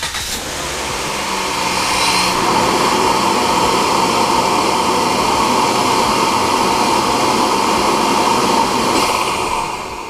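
A motor-driven machine starts just before and runs steadily with a loud, noisy rush, building over the first couple of seconds and winding down near the end.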